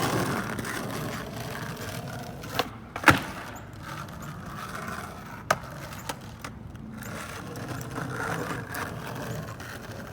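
Skateboard wheels rolling on pavement with a steady rumble, broken by sharp clacks of the board hitting the ground, the loudest about three seconds in and another about five and a half seconds in.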